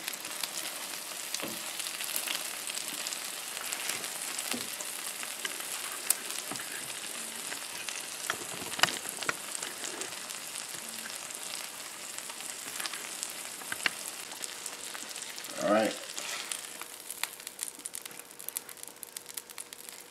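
Eggs sizzling steadily in grease on a Blackstone electric tabletop griddle's ceramic-coated surface, with scattered sharp clicks through the hiss.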